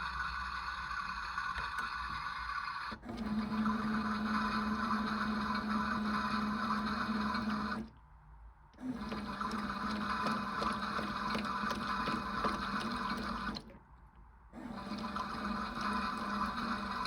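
Toy washing machine running mid-cycle: its small electric motor whirs steadily with water flowing and splashing inside. The motor cuts out twice for about a second, once about eight seconds in and again near fourteen seconds.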